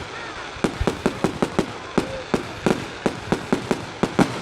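Fireworks bursting overhead: a rapid, irregular string of sharp bangs and cracks, several a second after a short lull at the start.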